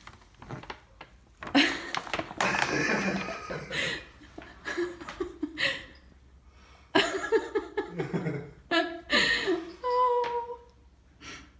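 People laughing and exclaiming in several bursts with short pauses between them.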